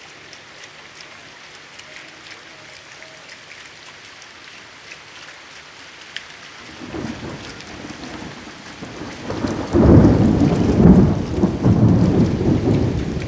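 Steady rain with scattered drop ticks, then a low rumble of thunder building about seven seconds in and loudest near the end.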